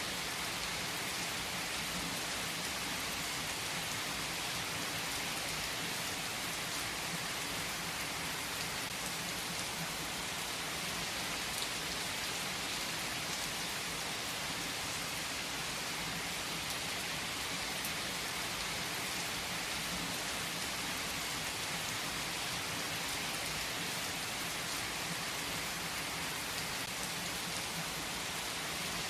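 Steady rain falling, an even hiss of drops with no breaks or change in strength.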